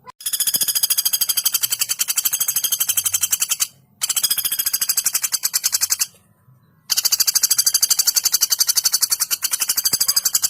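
Female common flameback woodpecker calling: long, rapid, even rattling trills of high notes, three in a row with short pauses between them.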